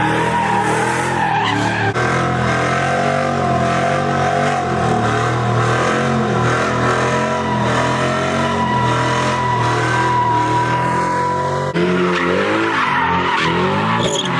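A car doing a burnout or donuts: tyres squealing in a long, wavering screech over an engine revving up and down at high rpm. The sound changes abruptly twice, at about two seconds in and near the end.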